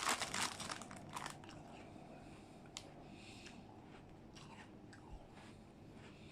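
Close-up biting and crunching of a digestive biscuit, loudest and densest in the first second or so, then softer chewing with scattered crisp clicks.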